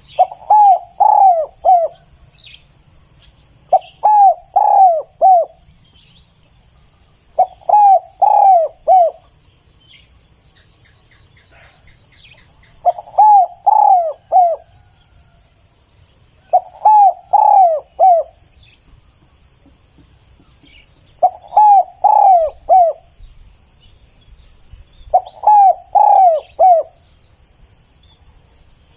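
Spotted dove cooing: a phrase of three or four coos repeated seven times, roughly every four seconds, over a faint steady insect buzz.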